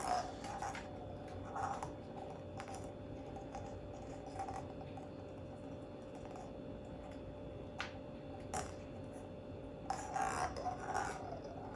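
Faint, scattered light taps and clicks from an African Grey parrot moving over a tabletop and handling a toy ball, over a steady low hum.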